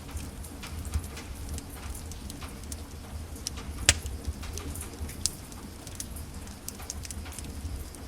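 Wood fire in a fireplace crackling, with irregular pops and one sharp, loud pop about four seconds in, over a low steady rumble.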